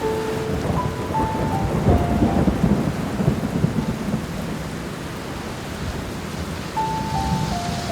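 Steady rain with rolling thunder, whose rumble is heaviest about two to three seconds in. Over it a slow piano melody plays single held notes stepping downward, pauses in the middle and comes back near the end.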